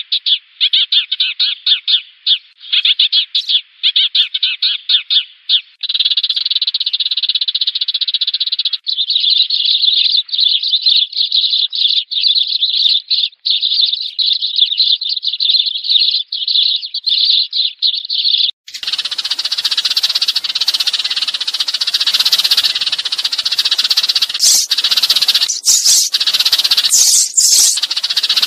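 Sparrows chirping in a rapid, continuous chatter, played as a flock-calling lure sound for trapping. About two-thirds of the way through, the chatter abruptly becomes harsher and brighter, as a different recording or a larger flock takes over.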